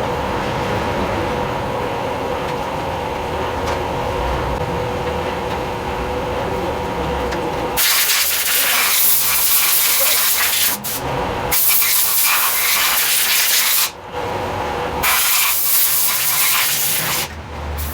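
A steady machine hum with a held tone, then three long blasts of loud hissing from a high-pressure jet, each lasting two to three seconds with short gaps between.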